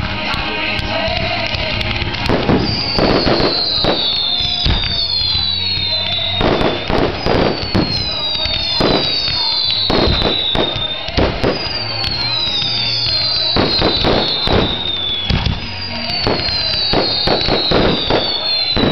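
Fireworks display: a steady run of sharp bangs and crackling bursts, with music playing alongside.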